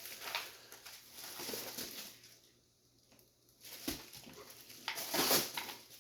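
Rustling and a few light knocks as a parcel is handled and opened, with a short pause midway.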